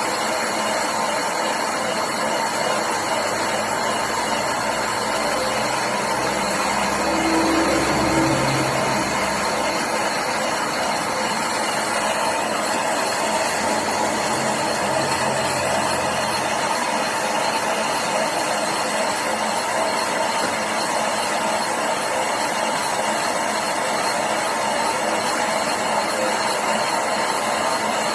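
Lathe running with a steady mechanical whir and hum, with a low tone swelling briefly about seven seconds in.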